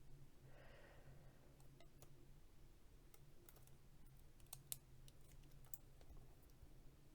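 Near silence with faint, scattered light clicks and ticks from hands handling tape and a transfer sheet on a mug, over a faint steady low hum.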